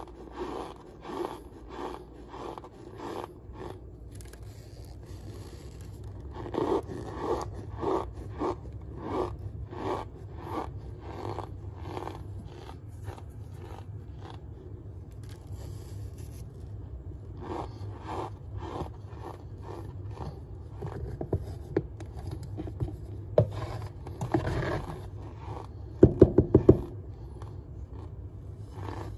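Cornstarch being crunched, repeated short squeaky crunches about two a second, easing off midway and picking up again, with a quick flurry of sharper crunches near the end.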